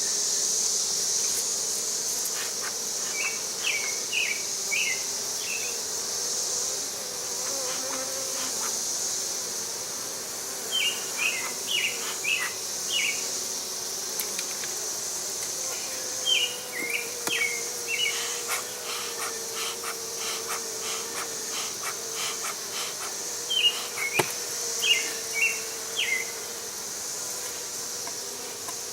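Honey bees buzzing around an opened colony, a wavering hum, under a steady high-pitched insect drone. A bird sings short runs of chirpy notes five times, and these are the loudest sounds.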